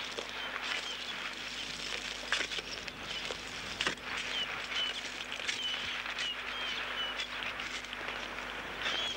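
A bird chirping repeatedly in short, high notes, about a dozen of them from about three seconds in, over a steady outdoor hiss. A few sharp scrapes and clicks sound through it.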